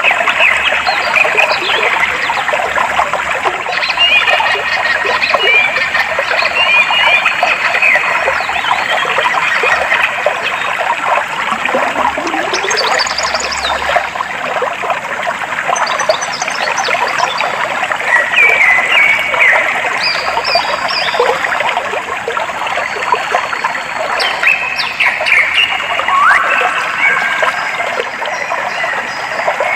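Clear water flowing and trickling steadily, with birds chirping at scattered moments above it, including a few quick upward-sweeping calls.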